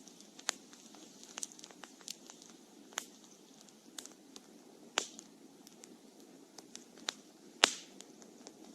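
Burning wood in a campfire crackling and popping at irregular intervals over a low hiss, with one louder pop a little past seven and a half seconds in.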